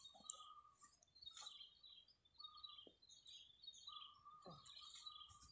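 Near silence, with faint bird chirps coming and going high up and a few short, steady whistled notes.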